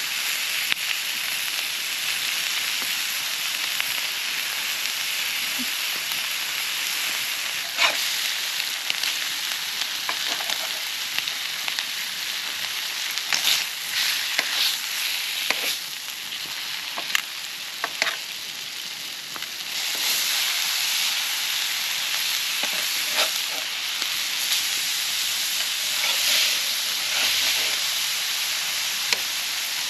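Burger patties sizzling steadily on a hot barbecue, with a few sharp pops and crackles from the fat.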